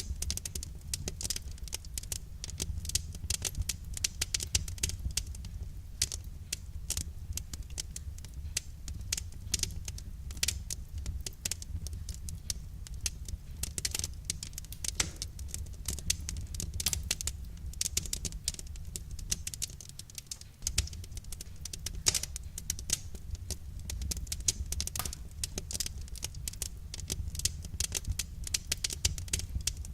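Wood fire crackling: irregular sharp pops and clicks over a steady low rumble.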